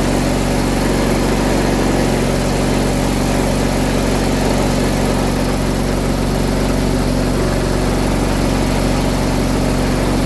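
John Deere 317 garden tractor engine idling steadily, freshly started with the choke after a loose battery connection was fixed.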